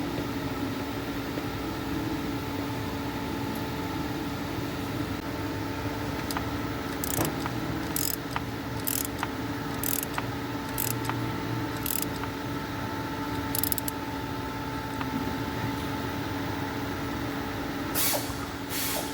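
A steady mechanical hum with several fixed tones. Over it come short, sharp rasping bursts about once a second through the middle and again near the end, from hand-tool work on the transmission.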